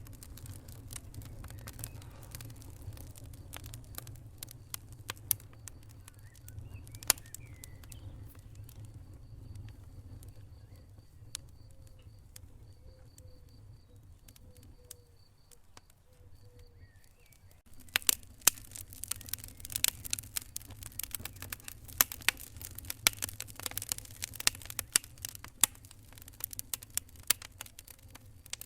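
Wood fire burning in a fireplace, crackling with sharp pops over a low steady rumble. The crackling thins out in the middle, then grows dense and busy about two-thirds of the way through.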